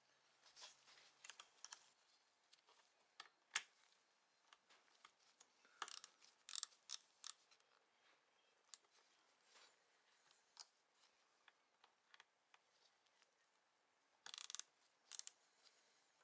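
Faint, scattered clicks and snips of hand work with small tools and parts, with a few quick clusters of clicks and one sharper click a few seconds in.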